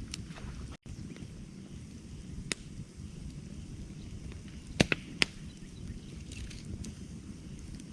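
Wood campfire burning with a steady low rumble and scattered crackles. A sharp pop comes about two and a half seconds in, and a quick cluster of three loud pops about five seconds in is the loudest part.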